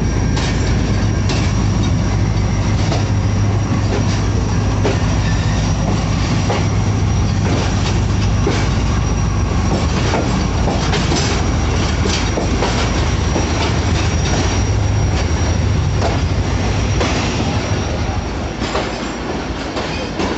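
Passenger train coach running on the rails: a loud steady rumble with irregular sharp clicks of the wheels over rail joints, the low hum fading and the sound getting a little quieter near the end.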